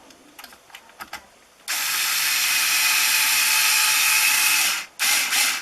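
Power drill driving a screw: a few light clicks, then the drill runs steadily for about three seconds, stops, and gives one more short burst near the end.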